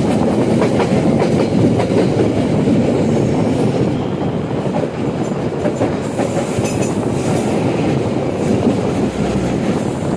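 Train passing over a railway bridge: a steady, loud rumble of wheels on the rails with faint clickety-clack, easing slightly about four seconds in.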